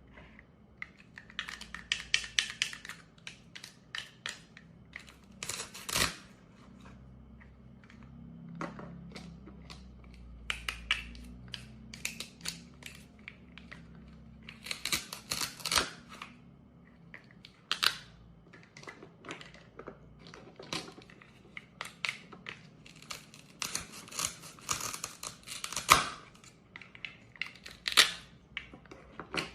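Plastic toy fruit being cut apart with a toy knife: the Velcro holding the pieces together rips open in short crackling tears several times, between light plastic clicks and taps as the pieces are handled.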